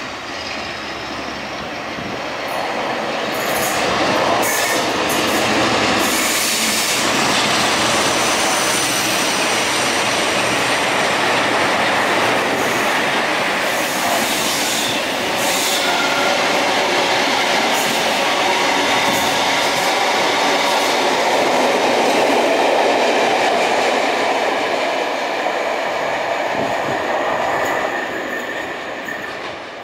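Passenger train of coaches running non-stop through the station. The noise builds over the first few seconds as it arrives, stays loud for over twenty seconds as the coaches go by, and falls away near the end as it recedes.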